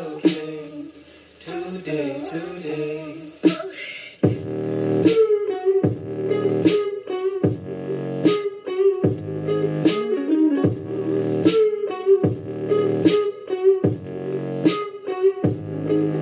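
Song with a steady beat played through a T&G 117 portable Bluetooth speaker. Heavy bass hits come in about four seconds in.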